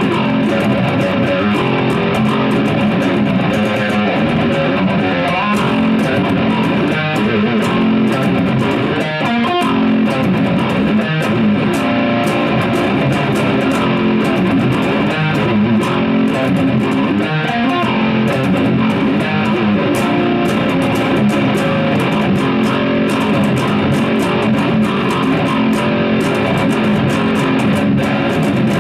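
Baritone seven-string electric guitar (Agile Intrepid 728) played continuously and loud, through a POD X3 Live split into a tube power amp and a tube bass head driving two custom Mauler cabinets (1x15/4x10 guitar cab and 1x18/1x15/2x10 bass cab). It is picked up by a camcorder's built-in microphone.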